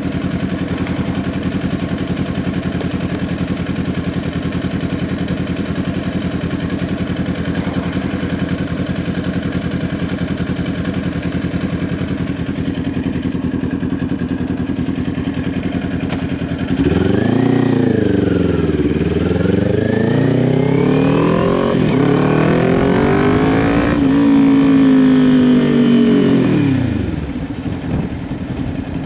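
Kawasaki Ninja 400's parallel-twin engine through a Leo Vince LV10 exhaust, idling steadily for a long stretch. It then pulls away louder, the revs rising and dropping through several gear changes, and falls back toward idle near the end.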